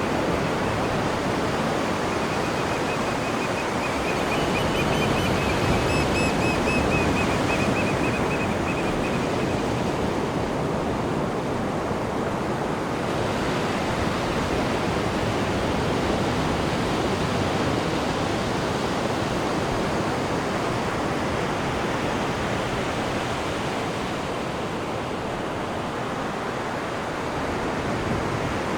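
Cruise ship's wake churning behind the stern: a steady rush of water.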